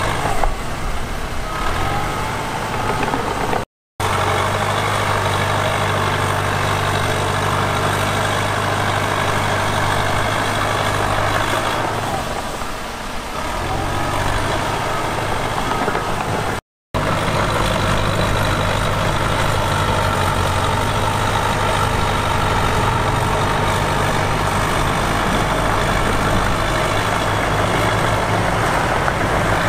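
Heavy earthmoving diesel engine running steadily, its note easing for a moment near the middle. The sound cuts out completely twice, very briefly.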